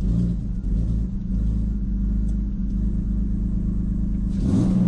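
Turbocharged BMW E46 engine idling steadily, with a brief louder noisy burst near the end.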